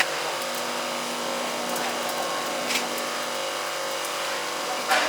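Small 6N2022-9FC21R rice mill machine running with a steady motor hum, with two brief sharp rattles, one a little past halfway and one near the end.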